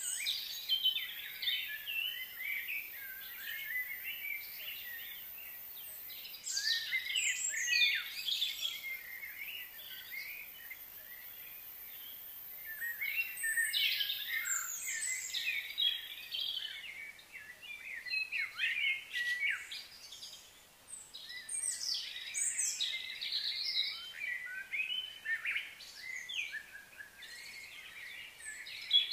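Several songbirds chirping and singing in overlapping short calls and trills, some sliding in pitch. They come in busy spells with a few quieter gaps, the quietest about two-thirds of the way through.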